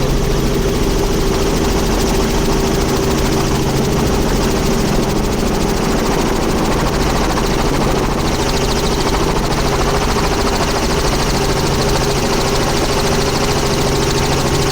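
Helicopter engine and rotor running steadily in flight, heard from aboard: a loud, even drone with constant humming tones.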